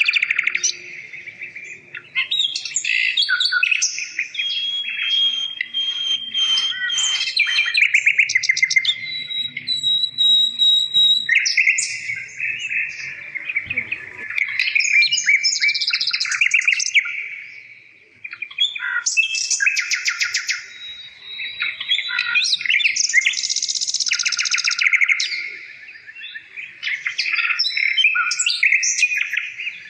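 Birds singing: a busy run of chirps, rapid trills and held whistling notes, with short lulls.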